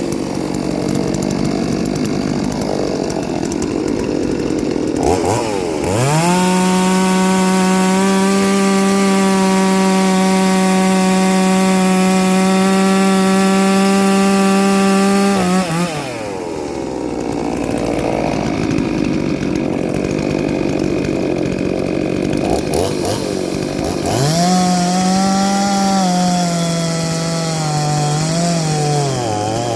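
Ported two-stroke chainsaw cutting wood. About six seconds in it climbs to a steady high pitch and holds it for roughly ten seconds, then drops into a rougher, lower stretch. It climbs again near the end, the pitch sagging and recovering as the chain loads up in the cut.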